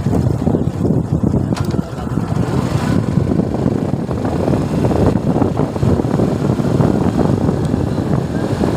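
Suzuki Gixxer motorcycle engine running steadily while riding, heard as a loud, continuous rough rumble.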